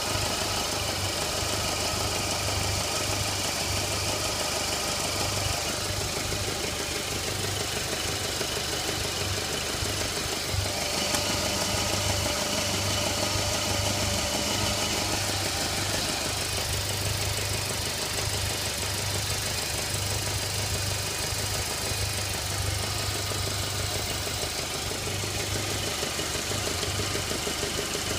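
Car engine idling steadily with a knock in it.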